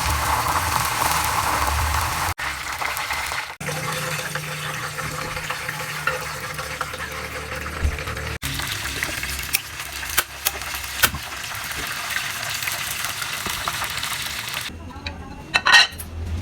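Food frying in hot oil in a pan, a steady sizzle broken by several abrupt cuts, with a few short utensil clicks later on.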